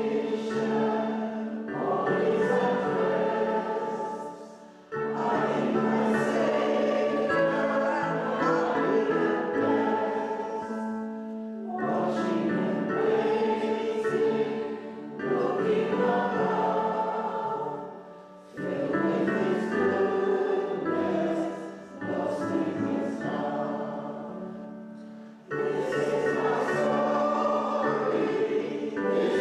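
Congregation singing a hymn with instrumental accompaniment, in phrases a few seconds long with short breaths between lines.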